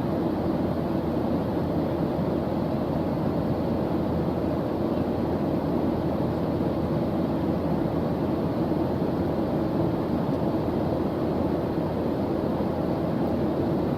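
Steady white-noise background track with an even, deep tone, most of its energy low and little hiss on top.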